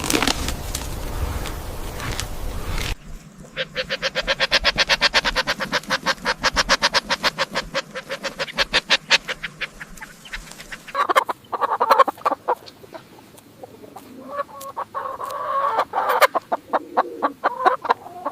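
Chickens clucking: a fast, even run of short clucks, then more uneven clucking and calls. This follows a brief stretch of unpitched noise that cuts off abruptly about three seconds in.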